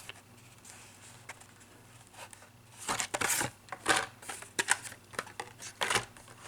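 Carded Hot Wheels packaging being handled, with its plastic blister and cardboard backing giving a run of short crinkles and taps starting about three seconds in.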